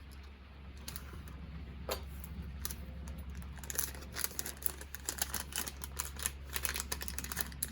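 Small metal parts clicking and tapping as a water pump impeller shaft and its washer are handled and fitted, a few separate clicks at first, then a rapid run of clicks from about halfway through, over a steady low hum.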